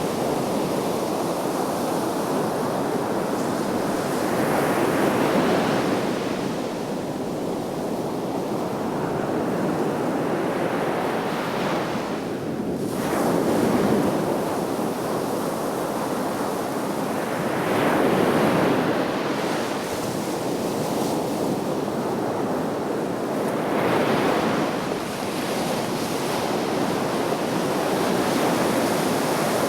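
Sea waves washing onto the shore: a continuous hiss of surf that swells louder every several seconds as each wave comes in.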